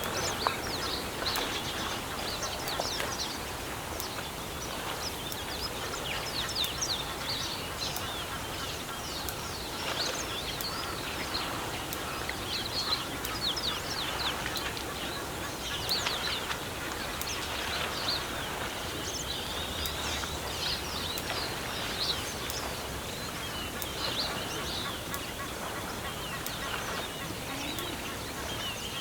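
Many birds chirping and calling, with short quick calls overlapping throughout, over a steady background hiss.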